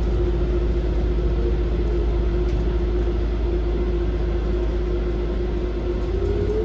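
Docklands Light Railway B92 stock train running: a steady low rumble with a steady electric hum over it, and a tone that starts to rise in pitch near the end.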